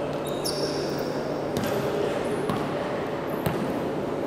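Basketball being bounced on a gym floor, a few sharp thuds about a second apart, over a steady background of players and spectators, with a few short high squeaks near the start.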